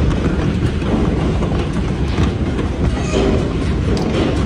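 A vehicle in motion: a loud, continuous rumble with fast clattering.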